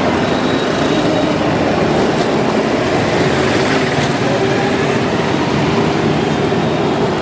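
Steady, loud running noise of a vehicle in motion, with a faint steady hum.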